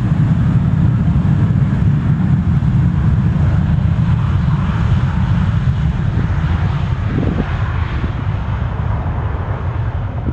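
Airbus A320-200 jet at takeoff power, its twin IAE V2500 turbofans giving a loud low rumble with a hiss above it. The sound slowly fades as the jet climbs away.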